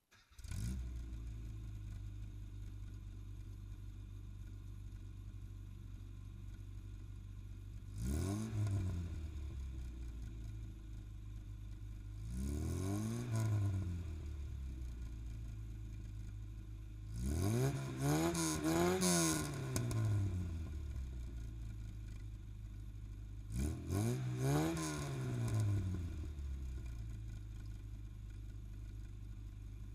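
Classic Mini's A-series four-cylinder engine, breathing through a Maniflow long-centre-branch manifold and Sportex exhaust, idling steadily and being revved: single blips about a quarter and nearly halfway in, a quick run of several blips past the middle, a couple more later, then settling back to idle.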